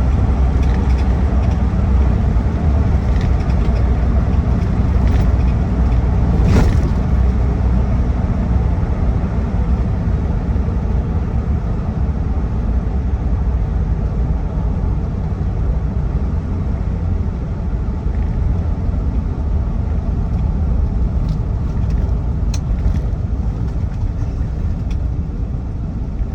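Steady low drone of a 2008 Land Rover Defender 90's 2.4-litre TDCi four-cylinder turbodiesel and road noise, heard from inside the cab while cruising relaxed at just below 2,000 rpm in the locked-up top gear. There is a single sharp click about six and a half seconds in.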